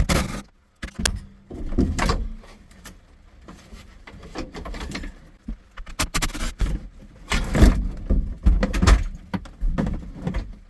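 Knocks, rattles and scrapes as a car's sunroof assembly is worked free and lowered out of the roof. The loud clunks come right at the start and in a busy run over the second half.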